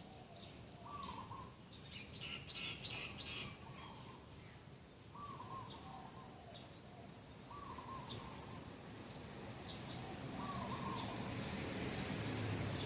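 A dove cooing, a short curling phrase repeated every two to three seconds, with small birds chirping around it and a quick run of loud, sharp chirps about two seconds in.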